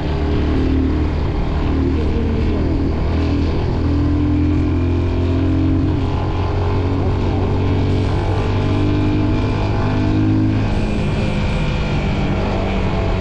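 Motorcycle engine running steadily while riding, with a low, even note that shifts slightly about four seconds in and again about eleven seconds in.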